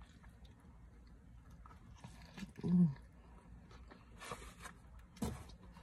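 A person chewing and biting food close to the microphone. A short low hum falls in pitch about halfway through, and a sharp click comes near the end.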